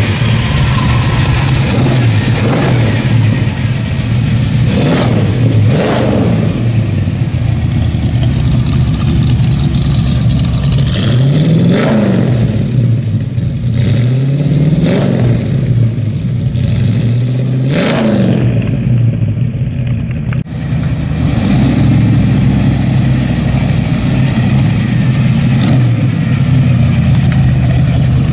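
Buick 401 Nailhead V8 idling through headers and a stainless exhaust, with its throttle blipped several times. Each rev rises and falls back quickly to a steady, low idle.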